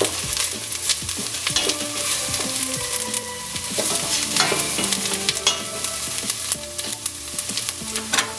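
Chopped yellow onion and garlic sizzling in melted butter in a stainless steel pot, stirred with a wooden spatula that scrapes and knocks against the pot every second or two.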